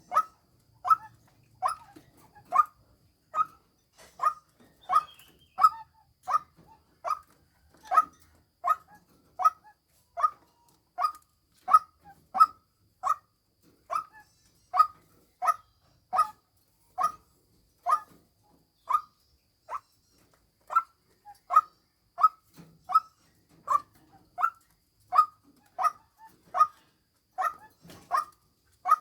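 White-breasted waterhen calling, a steady run of short clipped notes at about one and a half a second, the repeated call used to lure a female waterhen.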